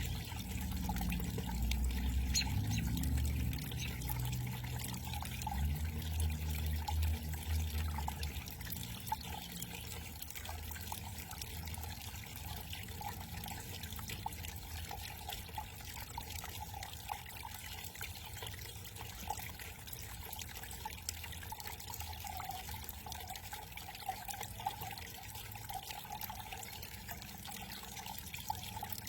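Small backyard garden waterfall, water trickling and pouring steadily. A low rumble sits under it for the first several seconds and fades out about eight seconds in.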